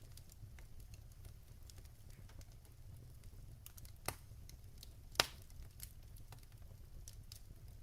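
Wood fire in a fireplace crackling, with scattered small snaps over a low rumble and two louder pops about four and five seconds in.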